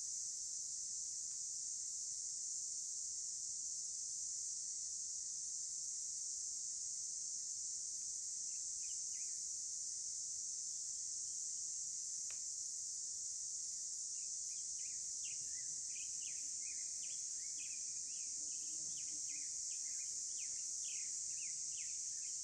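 Steady, high-pitched insect chorus, with a bird calling in short chirps partway in and then a quick run of chirps through the second half.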